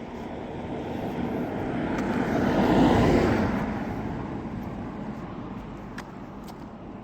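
A vehicle passing by: its noise swells to a peak about three seconds in, then fades away.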